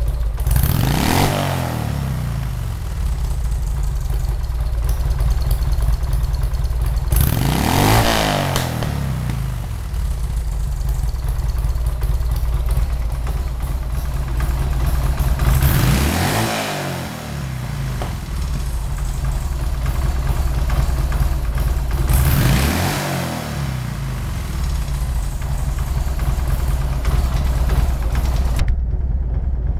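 1992 Harley-Davidson XLH1200 Sportster's air-cooled 1200 cc Evolution V-twin idling through its stock muffler, with the throttle blipped four times, each rev rising and falling back to idle within about two seconds.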